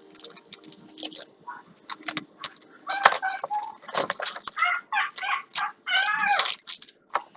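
Light crinkling and clicking of packaging being handled, then from about three seconds in a quick series of short chirping bird calls that are the loudest sound.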